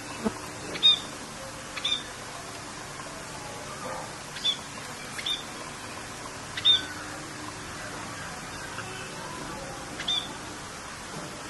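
Short, sharp bird calls repeated about a dozen times over a steady hiss of rain, the loudest about one second in and again near seven seconds.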